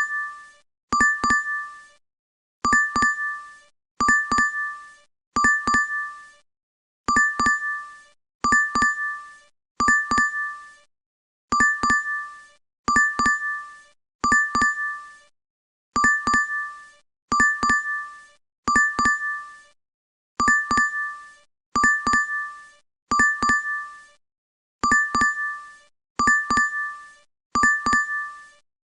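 DoorDash notification chime, a short bright two-strike ding that fades quickly, played over and over about once a second with brief silences between.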